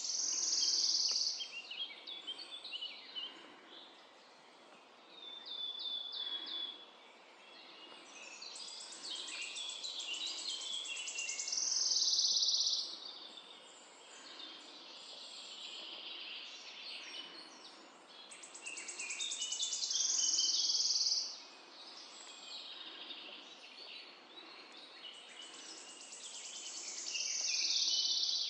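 Woodland birds singing in a morning chorus. One loud song phrase comes back about every eight seconds: a fast run of high notes lasting two to three seconds that ends in a louder flourish. Fainter calls and short trills from other birds fill the gaps.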